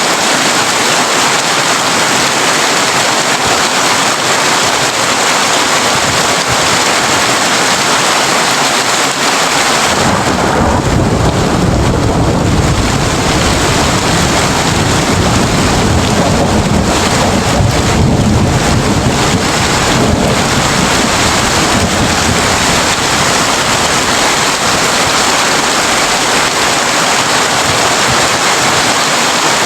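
Heavy rain drumming steadily on a tin roof. About a third of the way in, a long, low roll of thunder rumbles under it for about ten seconds and then fades.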